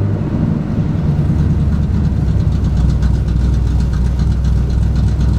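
Squarebody GMC truck engine with an oversized camshaft idling low and rough just after a restart, trying to stall. It dips briefly near the start, then holds a steadier idle.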